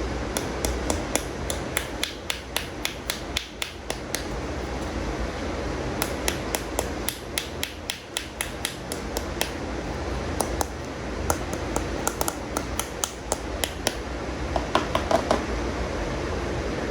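Toy animal figures handled and tapped: quick light clicks, about four a second, in four runs with short pauses between them, over a steady low background hum.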